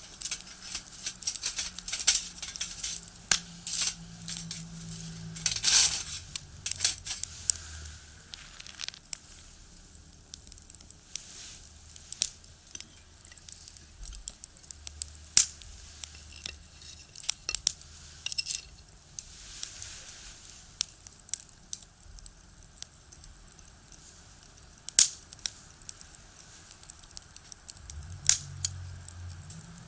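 Firewood burning in a small box stove, crackling and popping with irregular sharp snaps.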